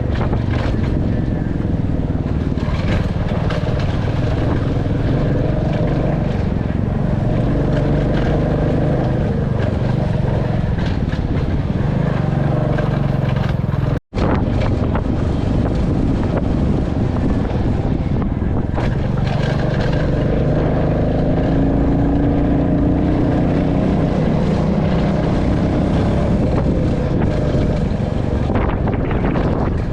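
Royal Enfield Classic 350's single-cylinder engine and exhaust running on the move, its pitch rising and falling with the throttle. The sound breaks off for an instant about halfway through.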